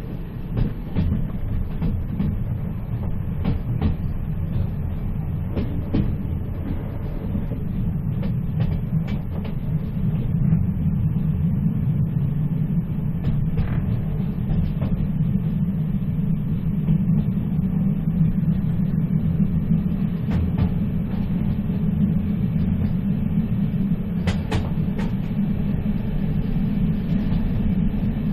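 Moving train heard from on board: a steady low rumble of the wheels on the rails with scattered clicks and knocks from the rail joints and carriage, and a short cluster of sharper clicks near the end.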